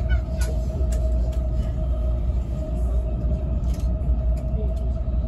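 Steady running rumble of an E657 series electric train at speed, heard inside the cabin, with a constant hum and a few sharp clicks.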